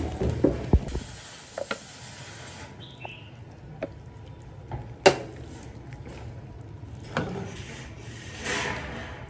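Kitchen handling noises: scattered knocks and clicks of utensils and dishes, the loudest about five seconds in, with soft rubbing between them.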